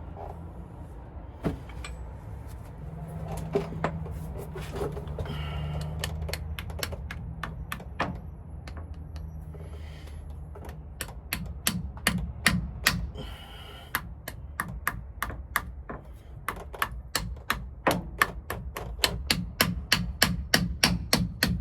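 Quick, light hammer taps on a seal installer, driving a new pinion seal into the differential housing. The taps are scattered at first, then come in a fast, even run of about four a second through the second half.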